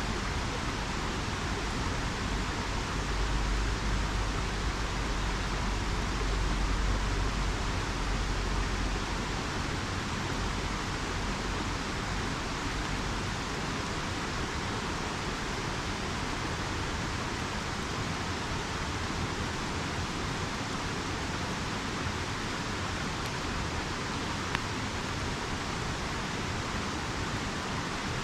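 River water rushing steadily, with a low rumble swelling for a few seconds near the start. One sharp pop from the campfire near the end.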